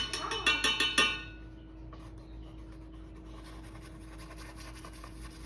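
A quick run of light clinks and taps in the first second, typical of painting tools against glass or a palette, then quiet room tone with a faint steady hum.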